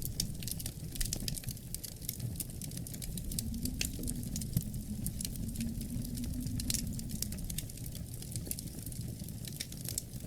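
Wood fire crackling, with frequent irregular sharp pops and snaps over a low, steady rumble.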